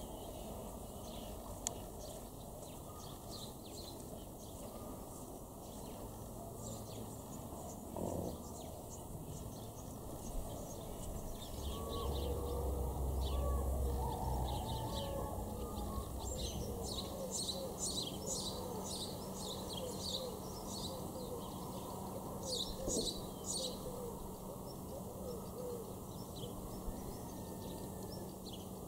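Small birds chirping in quick clusters of short high notes, more often in the second half. A low rumble about twelve seconds in, and a faint steady low hum from about halfway through.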